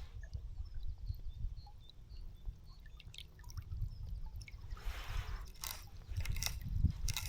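River water trickling and splashing around a wading angler, with wind rumbling on the microphone and a few sharp knocks in the second half.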